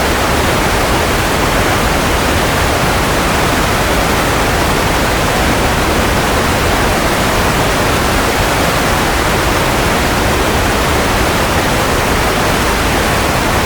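Steady white noise for baby sleep: an even, unbroken hiss, fuller in the low and middle range than in the treble.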